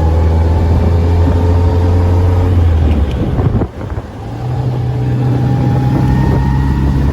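Morgan Plus 4's four-cylinder engine pulling steadily under way. About three and a half seconds in the sound drops briefly, as at a gear change, then the engine pulls again with its pitch slowly rising.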